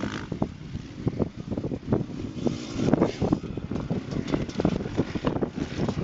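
Motocross bikes running on a dirt track, their engine noise rising and falling, with wind buffeting the microphone.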